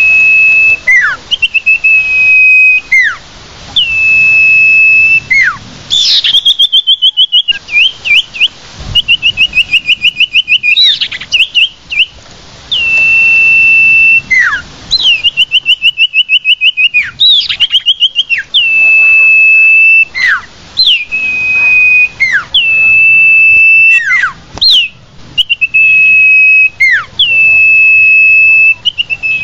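Common iora (cipoh, sirtu) calling, as a lure recording: long, steady whistled notes repeated every couple of seconds, each followed by a quick downward slur, with several bursts of fast trilled notes in between.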